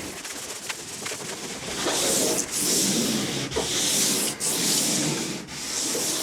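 Sandpaper rubbed by hand over the painted hull of a sailing canoe, sanding down the rough rolled-paint texture in back-and-forth strokes about one a second. It grows louder about two seconds in.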